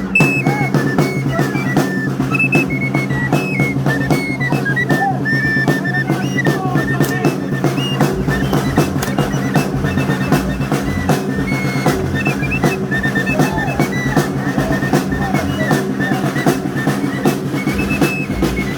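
Music for the torito dance: a high wind-instrument melody moving in short steps over fast, continuous drumming.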